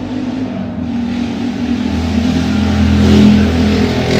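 A motor vehicle's engine running and revving in the street, growing louder to a peak about three seconds in, then easing slightly: the traffic noise that keeps her awake at night.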